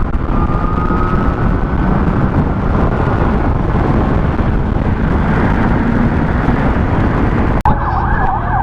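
Rushing wind on a motorcycle rider's microphone, with the sportbike's engine running at speed underneath. Near the end the sound cuts suddenly to a wavering ambulance siren.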